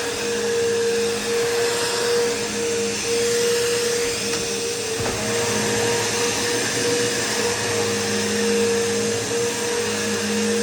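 Bissell PowerForce bagless vacuum cleaner running steadily, a constant motor whine over the rush of its airflow.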